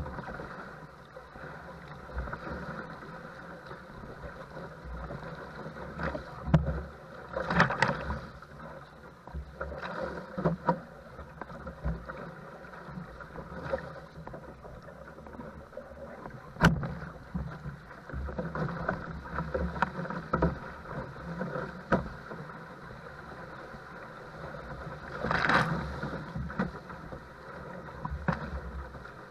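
Paddle strokes and choppy, wind-driven water slapping against a small paddle craft, with wind rumbling on the microphone. Louder splashes come about 8, 10 and 25 seconds in, with a sharp knock near 17 seconds.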